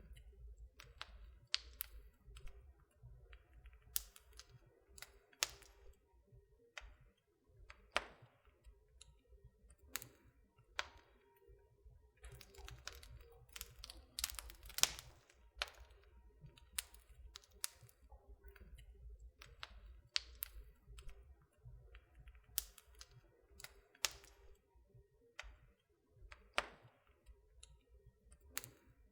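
Wood fire crackling in a fireplace: irregular sharp pops and snaps, a few louder ones about halfway through, over a faint low rumble.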